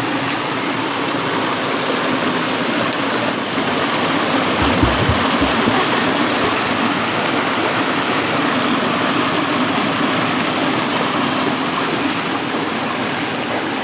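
Rushing river water, a steady even rush over rocks. A brief low bump of wind or handling comes about five seconds in.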